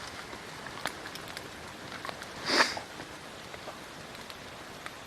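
Campfire crackling with scattered small pops over a steady hiss, and one short louder rush of noise about two and a half seconds in.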